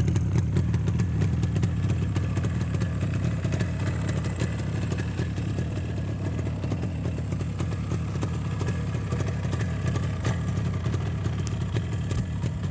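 1986 Escorts Yamaha RD350 HT's two-stroke parallel-twin engine running steadily through its exhaust, without revving.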